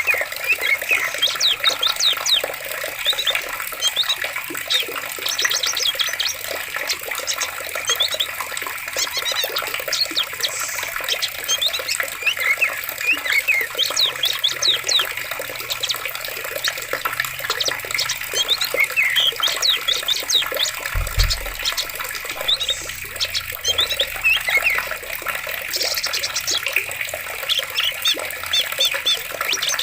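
Running water, a stream or small waterfall, with many birds chirping over it in quick short calls. A brief low thud about two-thirds of the way through.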